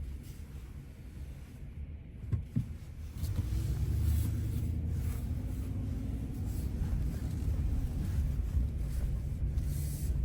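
Dodge Ram pickup truck driving: low engine and road rumble that gets louder about three seconds in as the truck pulls away, then holds steady.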